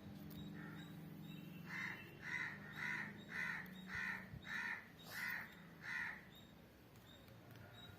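A bird calling outside: one faint call, then a run of eight short calls at about two a second.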